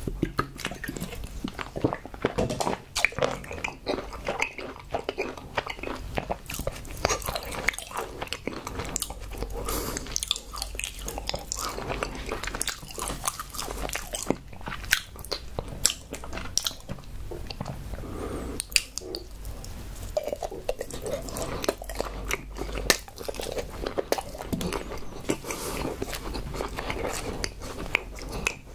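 Close-miked chewing: wet mouth sounds with dense, irregular crunchy clicks and crackles throughout, after a brief drink from a bottle at the start.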